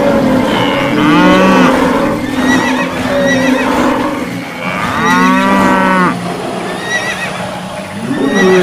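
Cattle mooing: two long, drawn-out moos, one about a second in and another about five seconds in, over a continuous noisy background.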